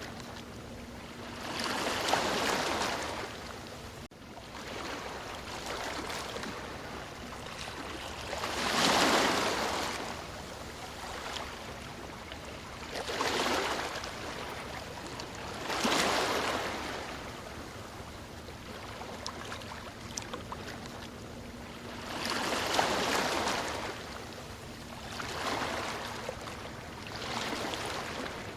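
Ocean waves breaking and washing up the shore: about seven surges of rushing water, several seconds apart, with a softer steady wash between them. The loudest waves come about nine seconds in and again around sixteen seconds.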